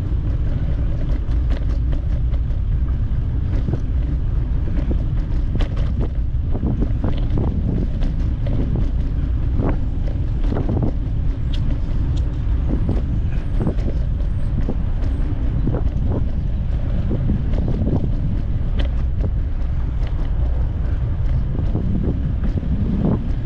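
Wind buffeting the microphone of a camera carried on a moving bicycle: a loud, steady low rumble with many scattered short clicks and rattles.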